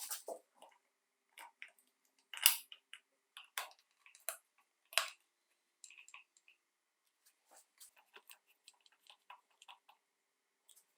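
Scattered light clicks and taps of small parts being handled, with the two loudest knocks about two and a half and five seconds in.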